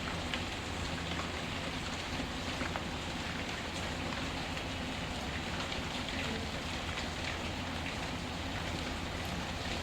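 Steady rain with scattered small crackles and pops of a wood fire.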